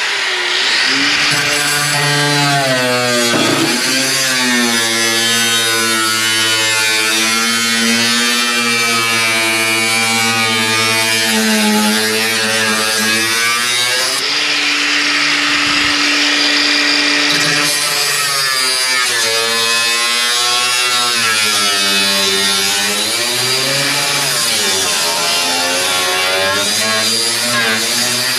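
Power saw cutting through car-body sheet steel, running continuously, its pitch sagging and rising as the blade loads up and frees.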